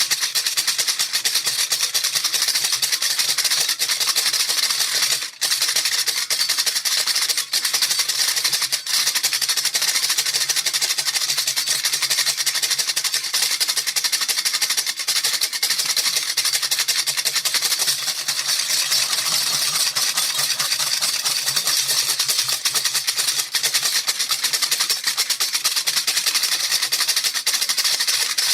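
Baby rattle shaken continuously and fast, its beads making a dense, steady hiss of clicks, with a brief break about five seconds in.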